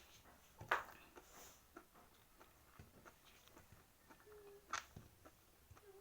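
Faint eating sounds: chewing and biting with scattered small clicks, the sharpest about a second in and another near the end. A faint steady hum comes in after about four seconds.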